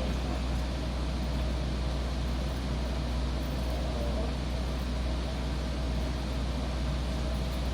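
Steady low drone with a hiss over it, from the train's running machinery heard inside a passenger rail car.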